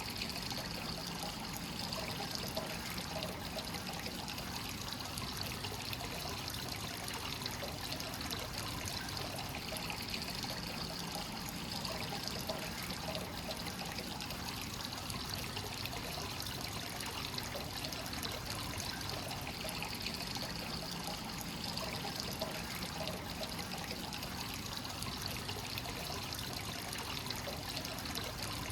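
Hot-spring source water pouring steadily into a bath, a continuous trickling and splashing.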